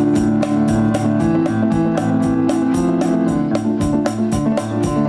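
Live band music: an electric piano holding chords over a fast, steady percussion beat of about five light hits a second.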